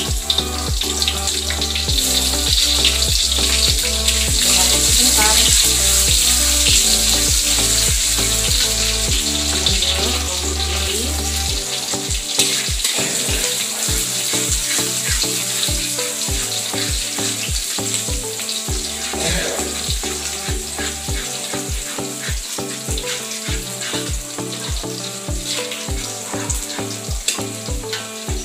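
Chopped shallots and garlic sizzling in hot oil in a wok as they are stirred with a spatula. The sizzle is strongest in the first several seconds and slowly eases. Background music with a steady beat plays underneath.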